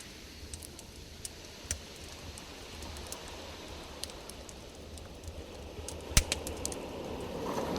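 Campfire crackling: scattered sharp pops and snaps over a steady low rush, with one loud pop about six seconds in.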